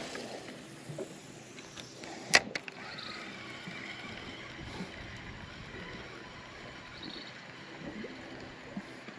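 Quiet on-the-water ambience aboard a small fishing boat, with one sharp knock about two and a half seconds in and a few faint ticks.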